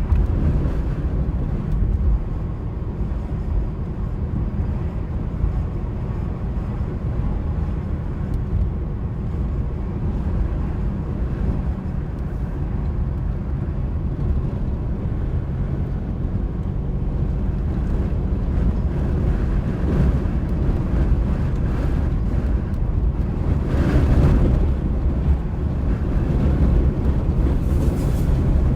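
Car on the move in high winds: a steady low rumble of road and wind noise, with a few louder swells in the second half.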